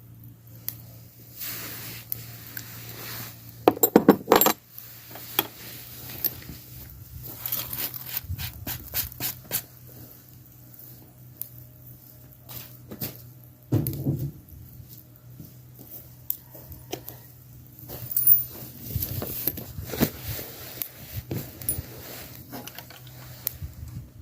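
Clinking and clattering of small hard objects, like dishes and utensils being handled, with a dense run of knocks about four seconds in, over a steady low hum.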